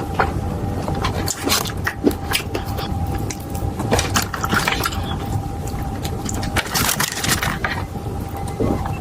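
Close-miked eating: irregular crunchy bites and chewing of food, over a steady low hum.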